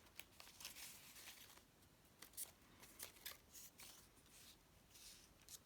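Faint, irregular rustling and light ticks of paper being handled: book pages and paper cut-outs being moved about.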